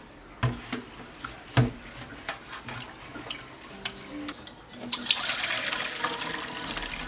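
A couple of sharp knocks and lighter clatter, then about five seconds in a tap is turned on and water runs steadily.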